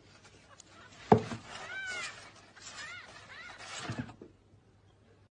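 Kitten mewing: three short mews that rise and fall in pitch, with a sharp knock about a second in, the loudest sound, and a softer one near the fourth second.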